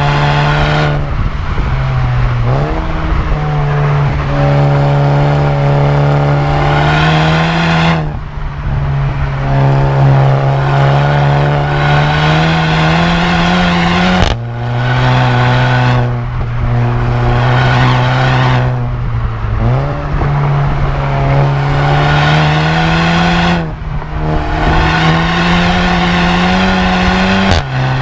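Volkswagen Golf GTI Mk7's turbocharged 2.0-litre four-cylinder through a muffler-deleted exhaust, pulling through the gears. The engine note climbs slowly in pitch for several seconds, then drops sharply at each gear change, several times over.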